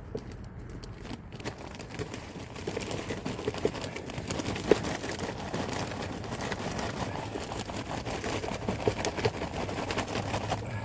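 Plastic bags rustling and crinkling as they are handled, with many small crackles, building up about two seconds in.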